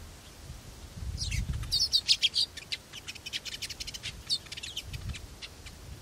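Small bird chirping: a quick run of short, high chirps starting about a second in, thickest around two seconds, then thinning out with a few more up to about four and a half seconds.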